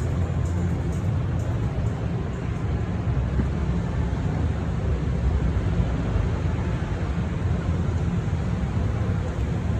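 Steady low rumble of a Ram 2500 Power Wagon pickup driving, heard from inside the cab.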